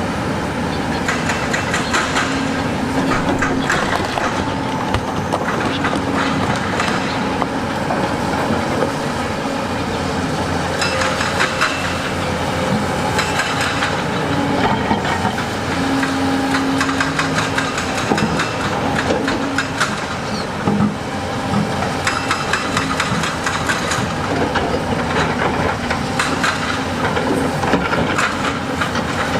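Diesel engine of heavy construction machinery running steadily under load, with repeated scraping and clattering strokes over it.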